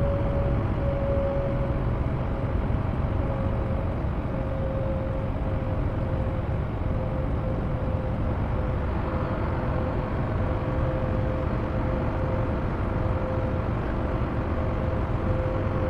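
Semi truck running, a steady low rumble with a steady whine running through it.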